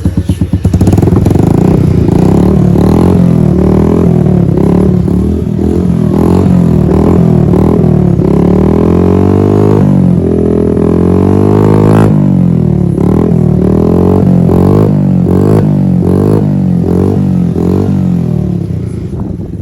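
Kymco K-pipe motorcycle engine revved through an aftermarket SC exhaust, blipped up and down in quick repeated throttle bursts with one longer climb midway. It is loud and throaty in the way of a freer-flowing aftermarket pipe.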